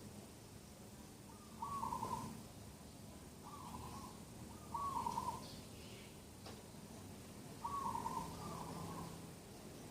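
A bird calling repeatedly, with five short calls at uneven intervals, the last two close together. Fainter, higher chirps of other birds sound in the background.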